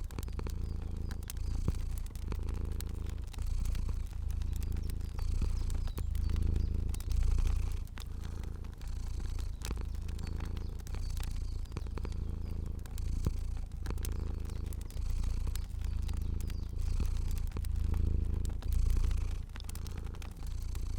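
A cat purring, a low rumble that swells and eases about every second and a half with its breathing. Small, sharp fire crackles sound over it.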